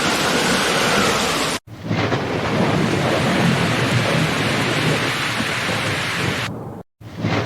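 Steady heavy rain with a low rumble of thunder underneath. The sound cuts out abruptly to silence twice, for a moment about a second and a half in and again near the end.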